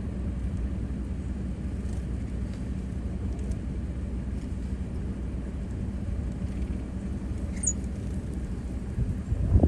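Steady low rumble with a faint steady hum, like distant engine noise. A single short, high bird chirp comes near the end, and a louder low thump just before it ends.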